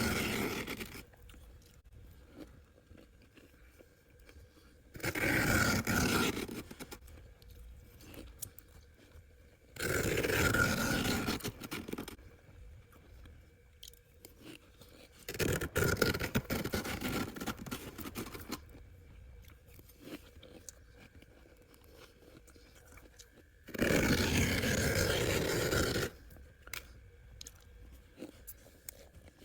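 Freezer frost being scraped and crunched, in about five separate bursts of two to three seconds each with quieter pauses between.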